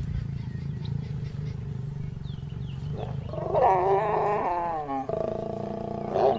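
Lions growling: a low rumble, then about three seconds in a louder, wavering snarl that breaks off and resumes around the five-second mark. These are typical of lions' snarls during mating.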